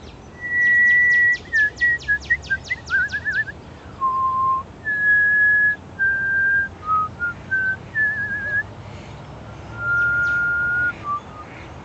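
A person whistling to call a northern cardinal: a string of clear notes, some held steady for about a second at different pitches and some warbled into short trills. A quick run of faint ticks, about four a second, sounds under the first few seconds.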